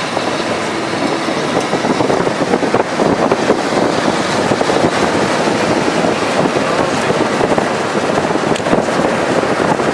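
Wind buffeting the microphone: a steady, loud rush with a fast, rough flutter and no pitched sound in it.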